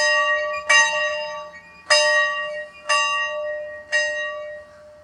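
A school bell rung five times at an uneven pace, each stroke ringing on and fading under the next: the old signal to get into class.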